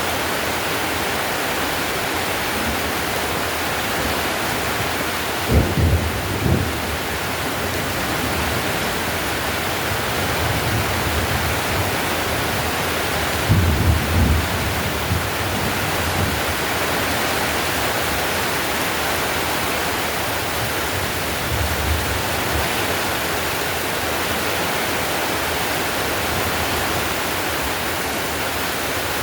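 Heavy rain drumming steadily on a tiled roof, an even hiss, with deep low rumbles breaking through about five seconds in, again around fourteen seconds, and more faintly around twenty-two seconds.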